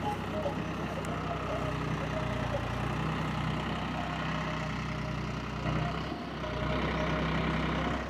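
Tractor diesel engine running steadily while powering a backhoe, getting louder for a second or so near the end.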